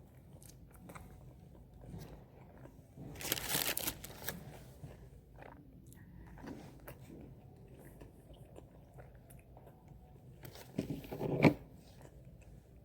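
Close-up eating sounds of a person chewing and biting food, with faint mouth clicks, a short crunchy burst a little after three seconds and a louder brief one near eleven seconds.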